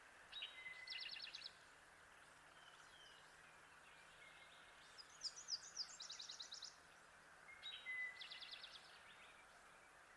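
Kirtland's warbler singing three short songs, each a quick run of repeated notes: one about a second in, a longer and higher-pitched one around five to six seconds in, and another near eight seconds. Faint steady hiss in the background.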